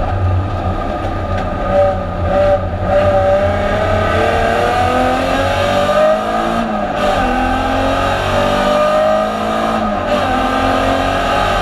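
Alfa Romeo 156 GTA's 3.2-litre V6 race engine, heard from inside the stripped, roll-caged cabin, pulling hard with its pitch climbing under acceleration. Each climb is broken by a brief lift, about three, seven and ten seconds in.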